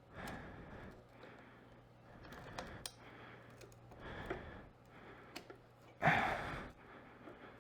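Faint handling sounds with a few light clicks as fork seal parts are worked off a motorcycle fork tube, and a breathy exhale about six seconds in.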